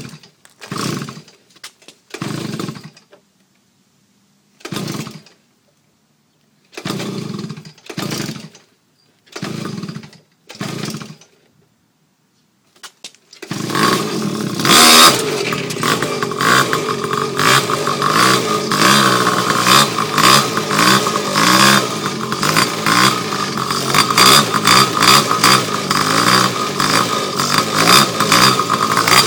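X1 pocket bike's small two-stroke engine being pull-started: about seven short bursts of cranking with pauses between, then about halfway through it catches and keeps running with a fast buzzing rattle, the revs rising and falling.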